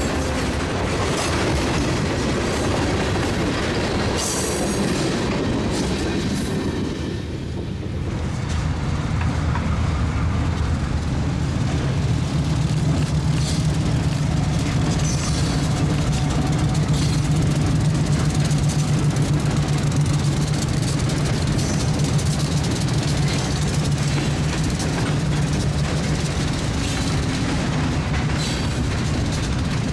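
Freight train passing: diesel locomotive engines running with a steady low drone, and tank cars rolling by with their wheels clicking over the rail joints. About eight seconds in the sound dips briefly, then the engine drone comes in louder.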